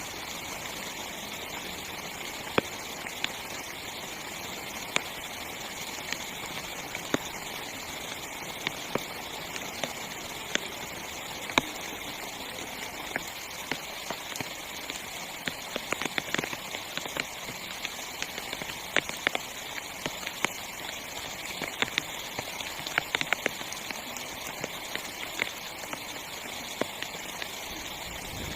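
Heavy rain falling on a small tent: a steady hiss with many sharp taps of single drops hitting the fabric, coming thicker in short spells.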